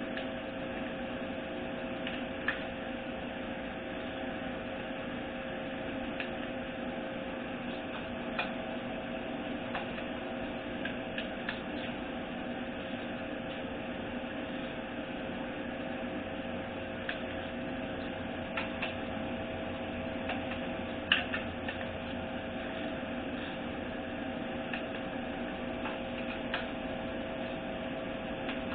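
Steady electrical hum with two even tones, with scattered light clicks and taps from parts and tools being handled, one sharper click about two-thirds of the way through.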